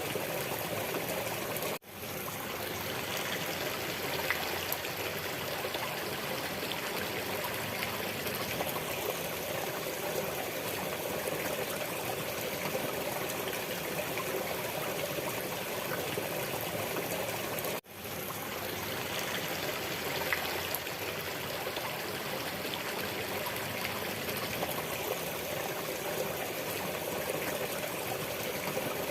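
Steady flowing stream water, running and trickling without a break in its texture. The sound cuts out for an instant twice, about sixteen seconds apart, fading back in each time, as at the join of a repeating loop.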